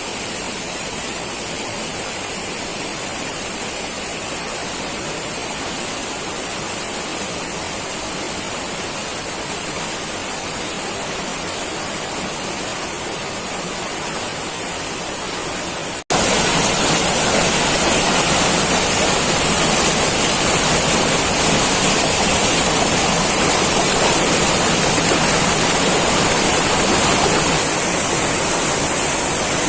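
Heavy rain pouring in a steady hiss. About halfway through it cuts suddenly to a louder, harsher downpour, which eases slightly near the end.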